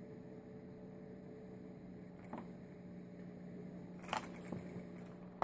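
A few light clicks and taps of small parts and tools being handled, the loudest cluster about four seconds in and a sharp click at the end, over a faint steady hum.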